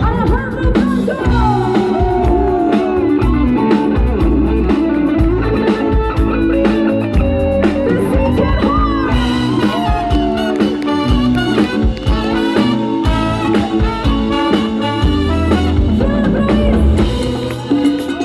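Live Latin band playing an instrumental passage: a lead line of sliding, bent notes over steady bass and drums, thinning out near the end.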